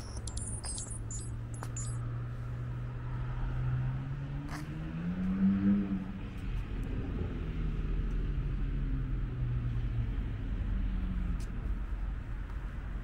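A motor vehicle's engine running nearby, its pitch rising and peaking in loudness about halfway through, then falling back, over a low rumble.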